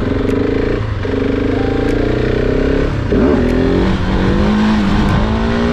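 Supermoto motorcycle engine accelerating through the gears: the revs climb, drop at a shift about a second in and again about three seconds in, then climb and settle to a steady pull.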